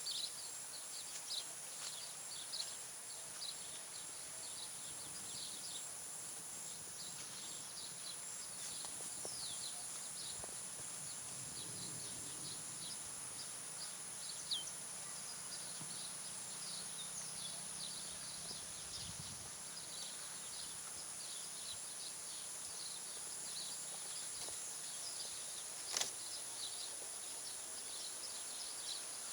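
Outdoor nature ambience: a steady, high-pitched insect drone with many short, high chirps scattered through it, and a single sharp click near the end.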